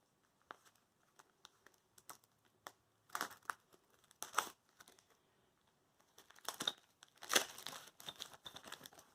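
Packaging crinkling and rustling as it is handled, in several short spells, the longest near the end.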